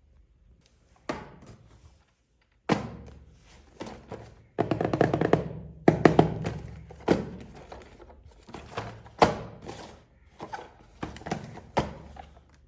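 Irregular knocks and thunks, a dozen or so, each with a short ringing tail and the loudest cluster about five to seven seconds in, as boxed toys and their packaging are handled.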